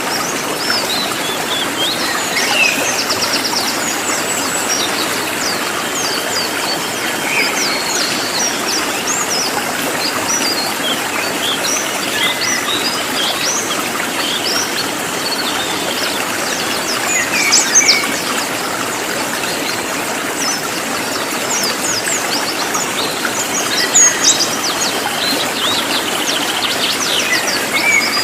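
Cililin songbird singing loud, rapid bursts of high, sharp chirps and short trills, densely packed, over a steady rushing background hiss.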